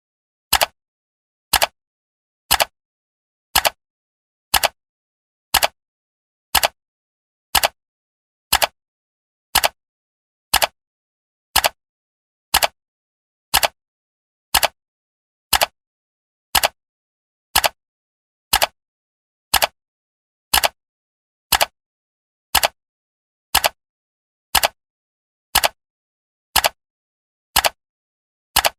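Countdown timer's clock-tick sound effect: one short, sharp tick every second, with silence between ticks.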